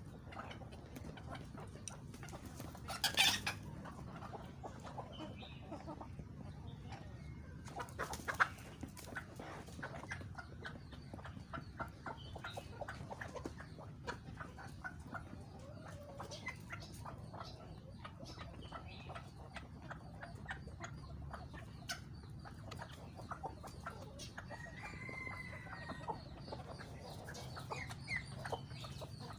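Chickens clucking, with many short clicks throughout and two louder bursts about 3 and 8 seconds in.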